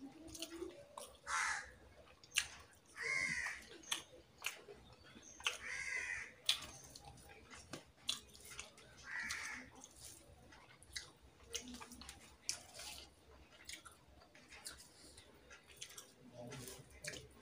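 Someone eating rice and curry by hand: chewing with short wet clicks and smacks all through. A crow caws about four times, harsh and short, during the first ten seconds.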